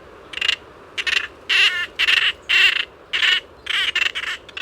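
Lesser noddy calling: a run of about eight short, harsh calls, roughly two a second, over a steady background hiss.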